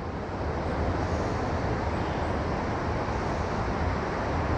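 A flooded river rushing steadily: an even, unbroken noise with a strong low rumble.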